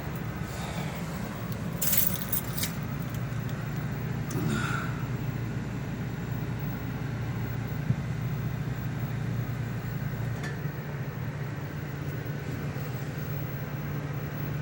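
Vehicle engine running steadily with a low hum, with a few sharp clicks about two seconds in.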